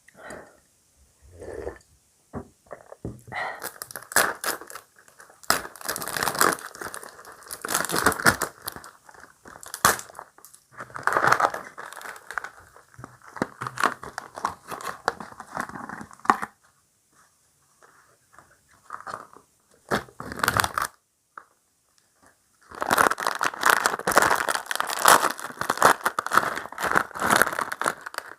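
Cereal crunching close to the microphone as it is chewed, in two long bouts with short quiet gaps: the first from about three seconds in, the second from about twenty-three seconds in.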